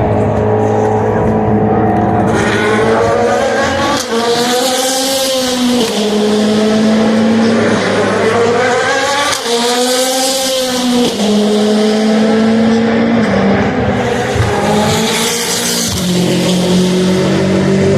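Endurance race cars' engines running past a trackside corner, several overlapping. Their pitch rises and falls in sweeps, with steady engine notes between them and a hiss of tyre and air noise over the top.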